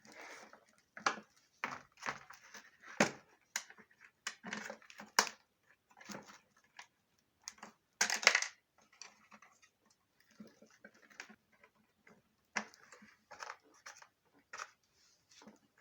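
Irregular clicks, knocks and rustling of hard plastic parts being handled and fitted together as a vacuum cleaner is reassembled, with the sharpest knock about eight seconds in.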